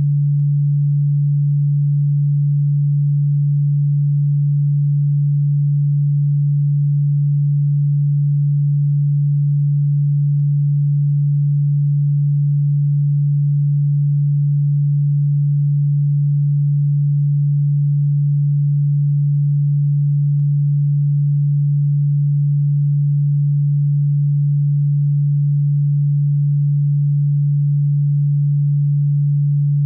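Continuous synthesized sine tone, a single steady low-pitched hum with no change in pitch or loudness. It is played as a cockroach-repellent sound.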